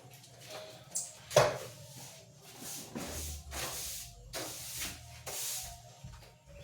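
A series of scratchy rubbing or scrubbing strokes, about two a second, with one sharp knock about a second and a half in.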